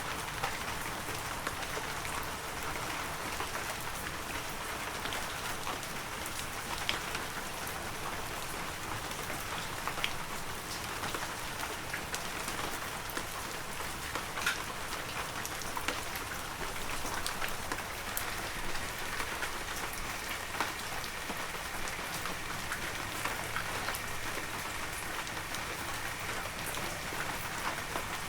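Heavy rain falling steadily, a dense hiss with scattered sharp drips and pattering drops standing out.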